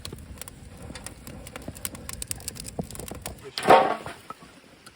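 Campfire of wet pine wood crackling, with scattered sharp pops and snaps. A short voice sound about three and a half seconds in is the loudest thing.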